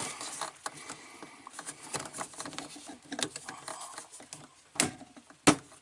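Plastic drain hoses being handled and fitted: scattered light rustling, scraping and tapping, with two sharper clicks near the end.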